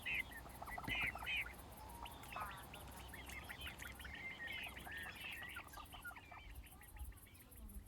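Birdsong: many small birds chirping and twittering in quick, overlapping calls, with a steady, fast, high-pitched pulsing underneath.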